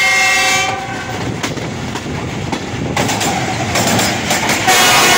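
Locomotive horn sounding a multi-tone chord that cuts off under a second in. The train's running noise follows, with scattered sharp wheel clicks, and the horn blows again near the end.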